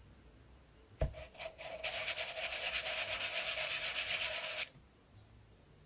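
A knock, then about three seconds of fast, even, scratchy rubbing of something against a surface at the craft desk, ending abruptly.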